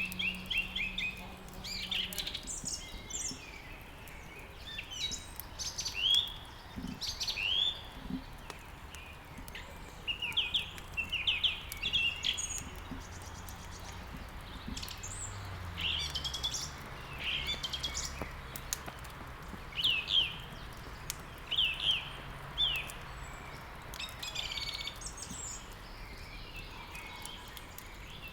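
Songbirds chirping and twittering: many short, quick notes high in pitch, repeated in irregular runs, over a faint steady background hiss.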